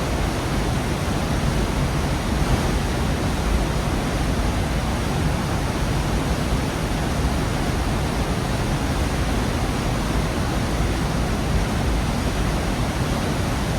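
Gorge waterfall: a steady, full rush of falling water, heaviest in the low end.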